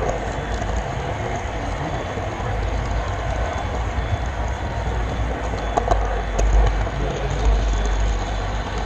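Model train rolling along the layout's track, heard from the camera car riding on it: a steady rumble with a few sharper clicks about six to seven seconds in.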